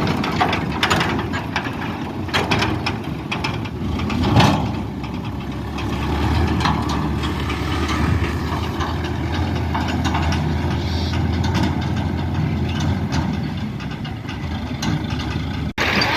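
A heavy vehicle engine idling steadily, with scattered knocks and clanks and one louder thump about four seconds in.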